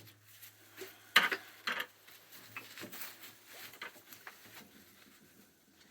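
Scattered light clicks, taps and scrapes of metal oil-burner parts being handled and cleaned. The two sharpest clicks come a little over a second in and about half a second later.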